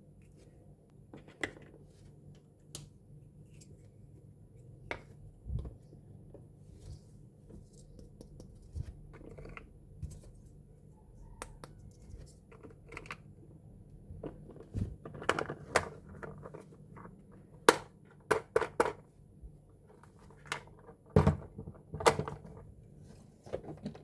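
Small plastic toy pieces and packaging being handled: scattered sharp clicks and taps, with short quick runs of clicks in the second half.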